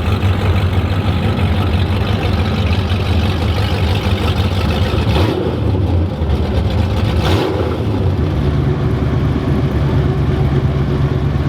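Drag car engine running loud and steady at low revs, its note stepping up to a higher, steady pitch about eight seconds in.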